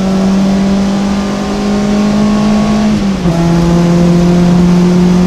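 VW Golf 2 GTI's four-cylinder engine under hard acceleration, heard inside the cabin: the engine note climbs slowly, drops a step at an upshift about three seconds in, then climbs again.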